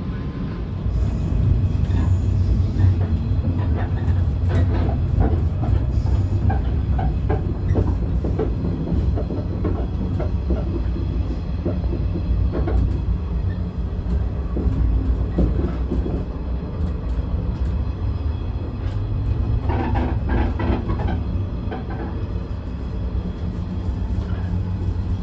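Running noise of the Rokumon tourist train, a converted 115-series electric train, heard inside the moving carriage: a steady low rumble with scattered rattles and knocks.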